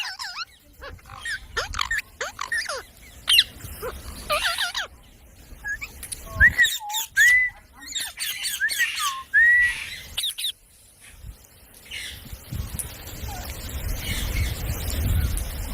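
A pet parrot chirping and giving short squawky calls in scattered bursts, with a run of short ringing calls in the middle. Clicks, and a low rumble in the last few seconds.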